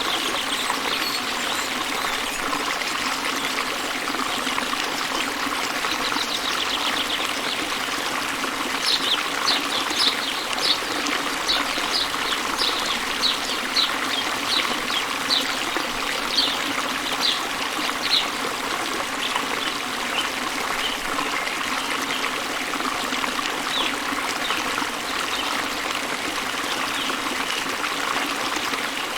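Small waterfall spilling into a river, a steady rushing hiss of flowing water. A bird repeats short high chirps about twice a second from about nine seconds in to about eighteen, with a few scattered chirps after.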